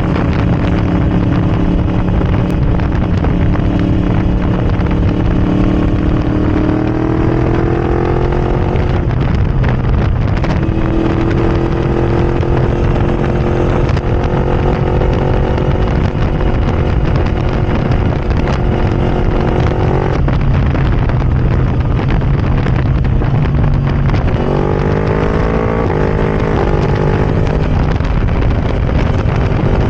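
Yamaha R1 crossplane inline-four running loud through a decatted Arrow Racing exhaust with no baffle fitted, under way. The engine pitch climbs, drops sharply at a gear change, holds steady for a long stretch, falls, then climbs again in quick steps near the end.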